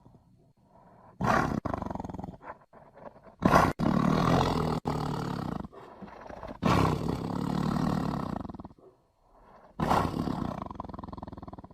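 Tiger growling in four long, deep growls of one to two seconds each, separated by short pauses.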